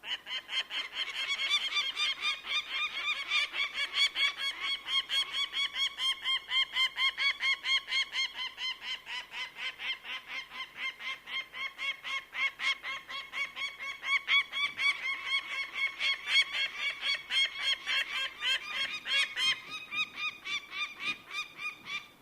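A bird of prey's call: rapid, repeated pitched notes, about five a second, kept up without a break for over twenty seconds. It starts and stops suddenly.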